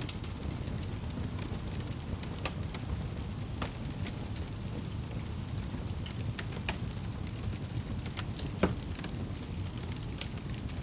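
Wood fire burning in a fireplace: a steady low rumble of flames with scattered sharp crackles and snaps, and one louder pop near the end.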